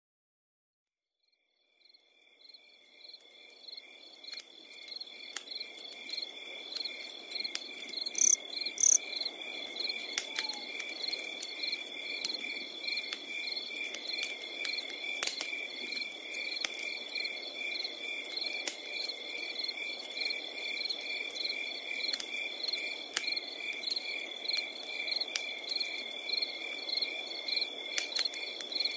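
Crickets chirping at night: rows of rhythmic chirps over a continuous high trill, fading in about two seconds in. Scattered sharp crackles and pops from a wood campfire sound over them.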